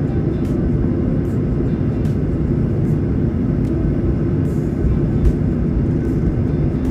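Airliner cabin noise: the steady low rumble of jet engines and rushing air heard from inside the passenger cabin.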